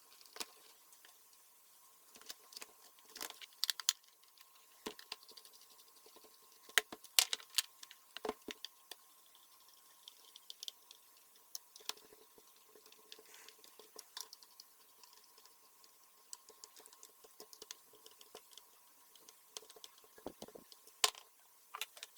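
Irregular light clicks and taps of a heat gun's plastic housing and parts being handled during repair, a few louder knocks among them, over a faint steady hum.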